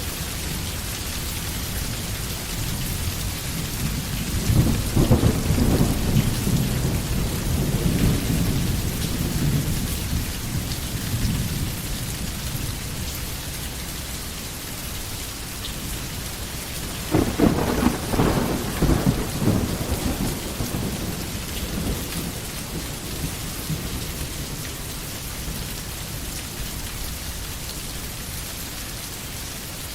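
Steady rain falling, with two low rolls of thunder: one builds about four seconds in and dies away over several seconds, and a second, sharper one breaks about seventeen seconds in and fades out.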